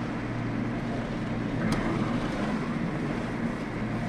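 Steady engine and road noise of a car on the move, with a short sharp click a little under two seconds in.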